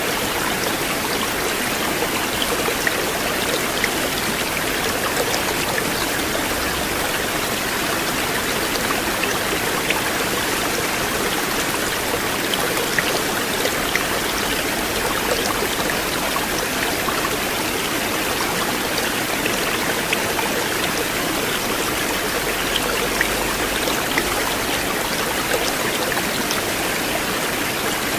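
River water flowing in a steady, unbroken rush, with small scattered splashes.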